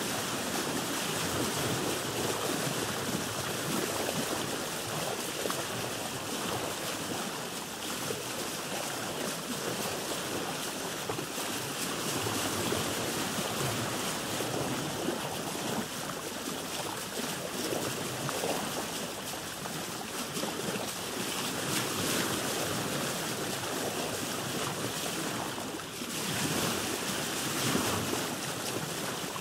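Sea water lapping and sloshing against a boat, a steady rushing with irregular surges and a brief dip followed by a louder swell near the end.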